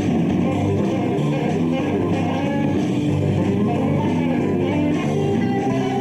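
Live rock band playing an instrumental passage: electric guitars over bass and drums, at a steady loudness.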